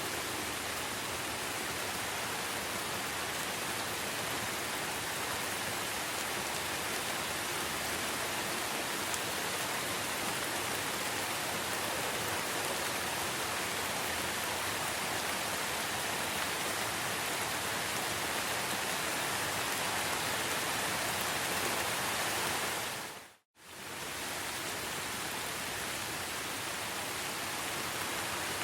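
Steady rain, an even hiss of falling water. About three-quarters of the way through it cuts out for a moment and fades back in.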